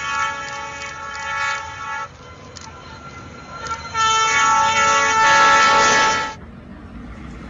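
Train horn sounding in two long blasts: the first ends about two seconds in, the second, louder one starts about four seconds in and lasts about two seconds.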